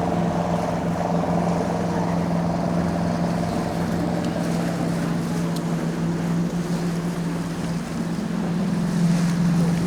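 Tour boat's engine running steadily under way, a continuous low drone.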